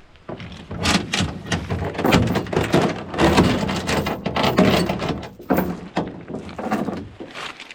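Thunks, knocks and rustling clatter of camp gear being handled and packed up, with many sharp impacts.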